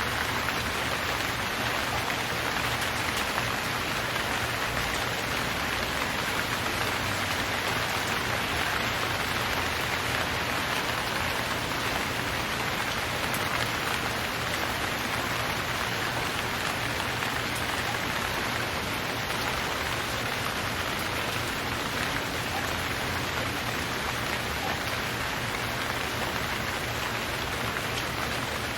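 Steady rain falling, an even hiss without thunder or breaks.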